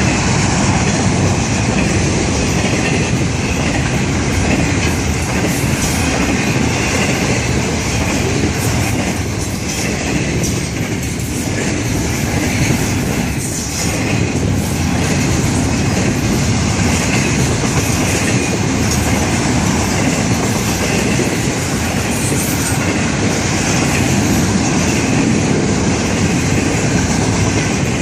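Florida East Coast Railway freight train's cars rolling past close by: a loud, steady run of steel wheels on the rails, with a thin squeal riding over it.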